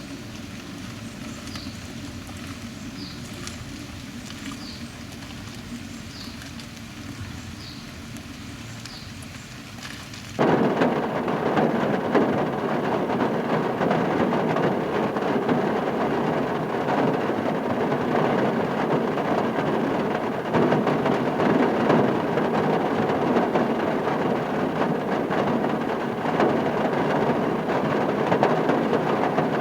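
Heavy rain falling, a loud, dense, steady hiss that comes in abruptly about ten seconds in. Before it there is a quieter low rumble with a few short high chirps.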